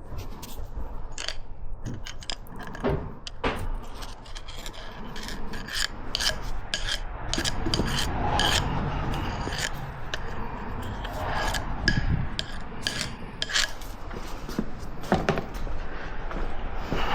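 Hand work on a Polaris Sportsman's CV joint: irregular small clicks and knocks over continual rubbing and scraping.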